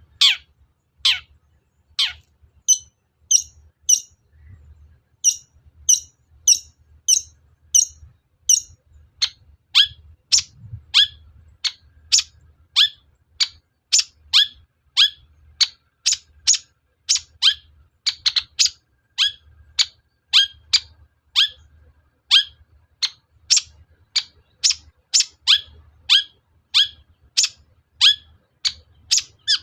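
Long-tailed shrike (cendet) giving a long run of short, sharp calls that sweep downward in pitch, at first about one a second and then quickening to about two a second.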